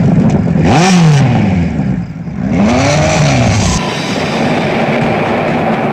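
An engine revved in repeated sweeps, the pitch rising and falling about twice within the first four seconds, followed by steadier background music.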